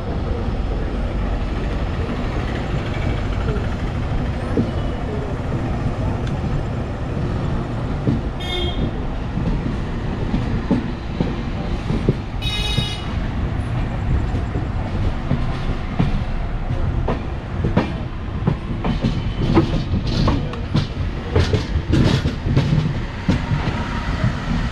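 Express train running at speed, heard from an open coach door: a steady rumble of wheels on rail, with sharp wheel clacks over rail joints coming thick and fast in the last third. Two brief high toots sound about eight and twelve seconds in.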